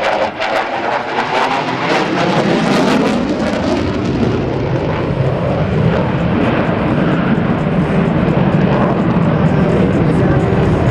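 Loud jet noise from an F-15E Strike Eagle's twin engines as it flies its display. The sound drops lower after about two seconds and then holds steady.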